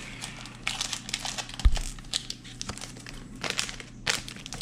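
Foil wrapper of a trading-card pack crinkling and tearing as it is ripped open, in irregular crackles, with one dull bump about a second and a half in.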